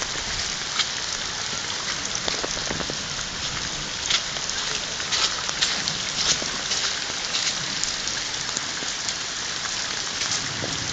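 Steady rain falling: a continuous hiss peppered with sharper individual drop impacts throughout.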